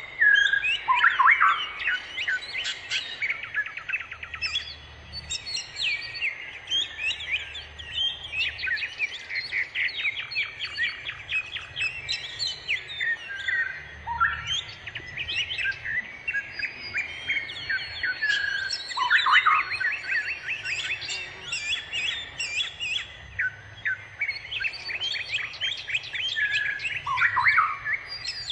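A chorus of many birds chirping and twittering without pause, full of short high chirps, rapid trills and quick up-and-down whistles, several calling over one another.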